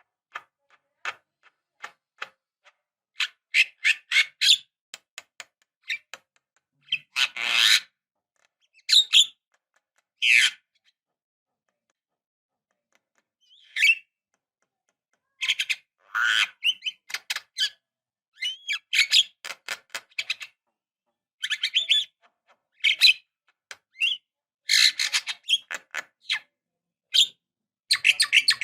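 Javan myna singing a varied song: sharp calls, whistles and fast runs of clicking notes in irregular bursts, with a pause of about two seconds in the middle.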